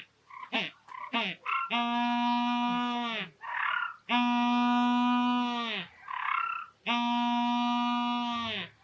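Humboldt penguin braying display call: a run of short falling notes, then three long, donkey-like braying notes of about a second and a half each, with wheezy breaths between them.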